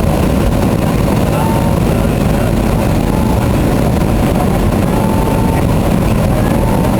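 Steady, loud cabin noise of an airliner in descent: engine drone and rushing airflow.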